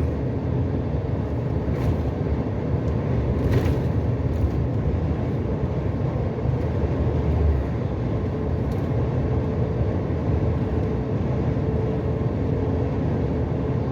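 Steady low rumble of a long-haul truck's engine and tyres, heard inside the cab while cruising on the highway.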